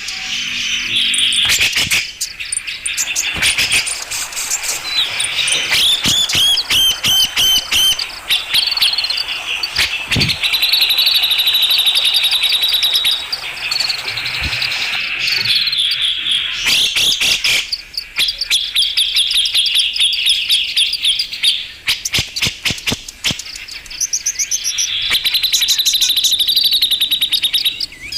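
Grey-cheeked bulbul (cucak jenggot) singing: long, fast chattering trills of rapidly repeated notes, some held for several seconds, broken by short pauses.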